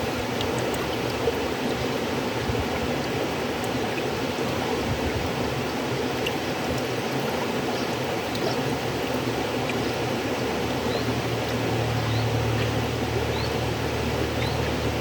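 River water flowing steadily: a continuous rushing, with a low rumble that grows a little stronger about two-thirds of the way through.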